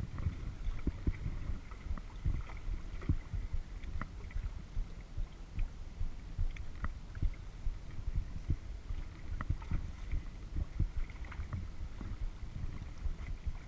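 Kayak being paddled, picked up by a GoPro's microphone: an uneven low rumble with soft knocks, and scattered light drips and splashes of water.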